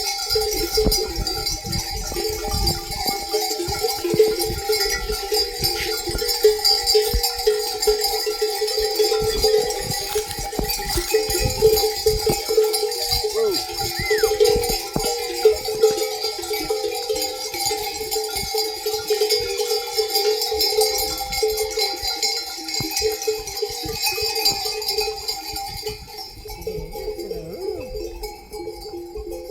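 Many livestock bells on a moving flock of sheep and goats, clanking and jangling continuously.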